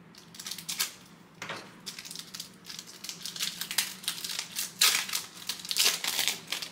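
Trading-card pack wrapper being torn open and crinkled, an irregular crackling that is loudest about five to six seconds in.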